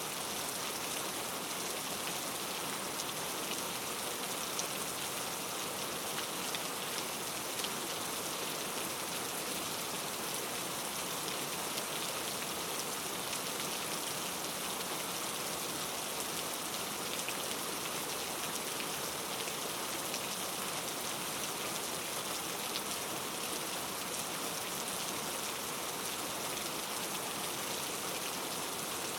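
Steady rain falling on a surface, an even hiss dense with fine drop patter.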